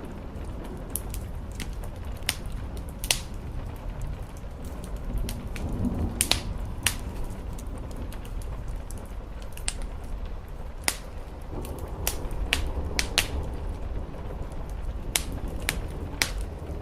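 Wood fire crackling with irregular sharp pops, over a steady hiss and low rumble of rain.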